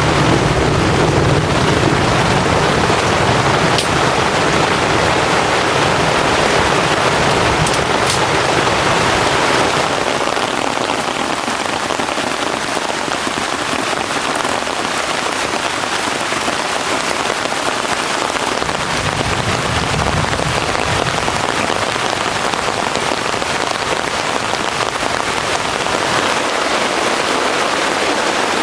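Heavy rain pouring steadily, with a low rumble underneath during the first ten seconds or so and again briefly past the middle.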